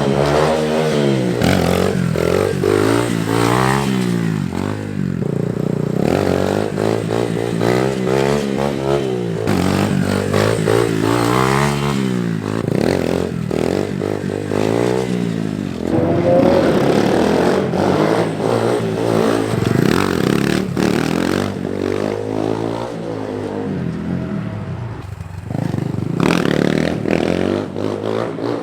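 SSR 150 dirt bike's four-stroke single revving up hard and dropping back again and again, about every three seconds, as the throttle is worked for first-gear wheelies.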